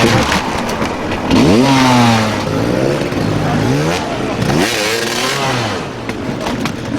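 Dirt bike engines revving hard in repeated bursts, the pitch climbing sharply about a second in and again around four and a half seconds in.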